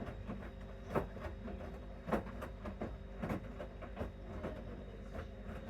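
Bosch Series 6 front-loading washing machine in its main wash: the drum turns steadily over a low motor hum, with irregular soft knocks from the tumbling laundry, the strongest about one, two and three seconds in.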